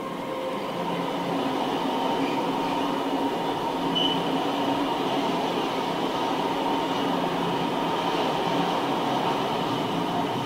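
Freight train passing at speed, an electric locomotive followed by covered sliding-wall wagons, with a steady rolling rumble of wheels on rail. A brief high tone sounds about four seconds in.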